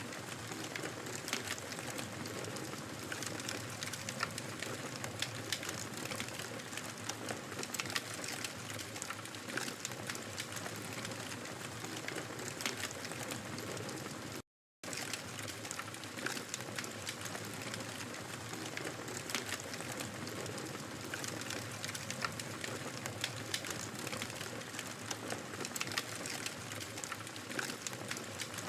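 Wood fire crackling in a fireplace: a steady soft hiss with frequent small pops and snaps. The sound cuts out completely for a split second about halfway through.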